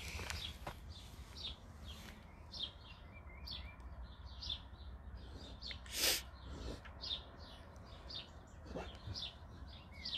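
A bird chirping over and over, short high calls two or three times a second. About six seconds in, a black dog digging with its nose in the sand gives one short, loud blow of breath.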